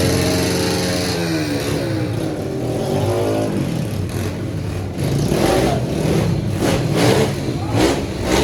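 Small pit bike engine revving: its pitch sags and climbs over the first few seconds, then a run of quick, uneven rev blips.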